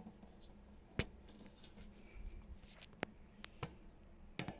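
Quiet room tone with a few light, sharp clicks and taps, two close together near the end, from papers and a paper trimmer being handled on a desk.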